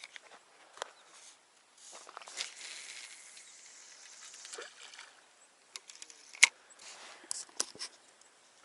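Fishing tackle being handled: scattered small clicks and rustles, a soft hiss lasting about three seconds, and one sharp click about six and a half seconds in.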